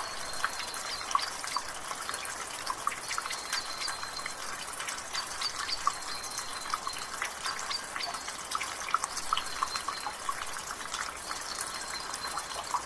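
Rainwater dripping from a gutter, many irregular drips falling fast over a light hiss of drizzle. In the background a bird repeats a thin high note every couple of seconds.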